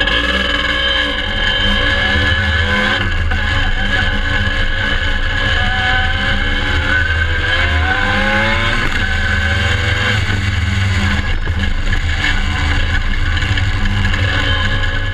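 Dirt bike engine running under way, its pitch rising and falling with the throttle, with the longest climb between about six and nine seconds in.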